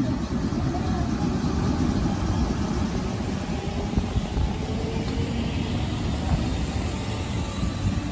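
Sanyo 3000-series electric train pulling away along the track: a steady rumble of wheels and running gear on the rails, with a couple of short knocks from the wheels going over rail joints.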